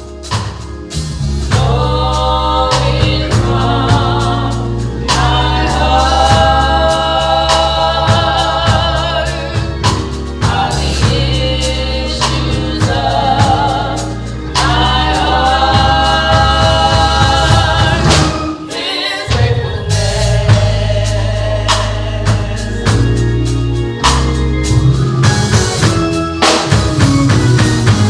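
Gospel choir singing with a band, over a deep bass line and drum kit. The music breaks off briefly about two-thirds of the way through, then comes back in.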